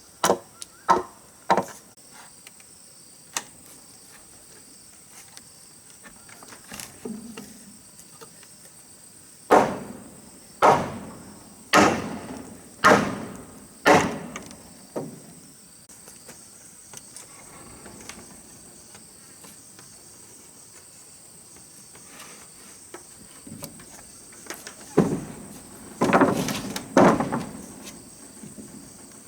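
A hand tool striking wood in sharp knocks about a second apart, in three bouts. Under it runs a steady high insect drone.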